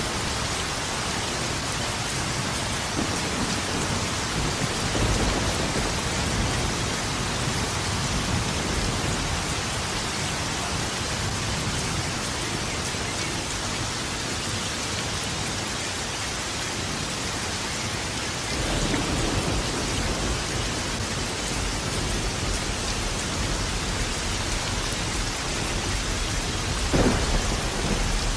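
Steady rain, with rolling thunder: a low rumble about five seconds in, a longer one starting about two-thirds of the way through, and a sharper thunderclap near the end.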